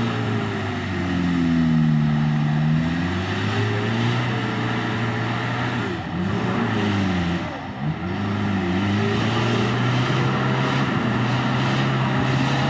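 Off-road 4x4 race vehicle's engine revving, its pitch rising and falling again and again as the throttle is worked, with two sharp drops in revs about six and eight seconds in.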